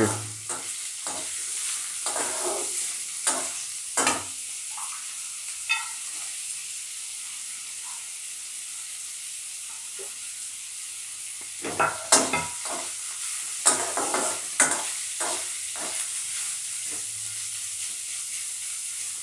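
Chopped onion and garlic sizzling in hot oil in a metal kadhai, with a steady hiss, while a wooden spatula stirs them, scraping and knocking against the pan now and then, most often in the second half.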